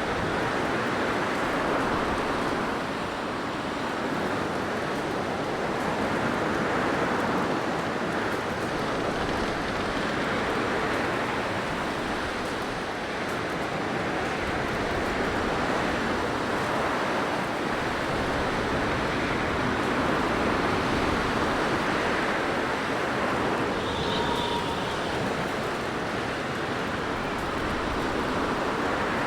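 Blizzard wind blowing, a steady rushing noise that swells and eases slowly, with a brief faint whistle near the end.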